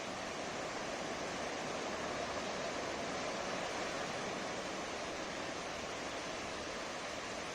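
Ocean surf on a beach: a steady wash of breaking waves, swelling slightly in the middle.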